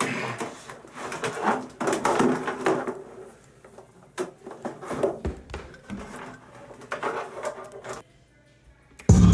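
Quiet studio room sound with faint scattered noises while the hip-hop beat is stopped, going completely silent for about a second near the end. Then the beat starts again loudly.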